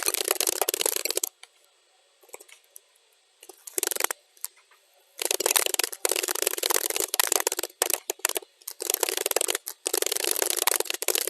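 Fast computer-keyboard typing, sped up to double speed, so the key clicks run together in dense bursts. The typing stops about a second in, leaving only a few scattered key presses for about four seconds, then resumes in rapid runs with short breaks.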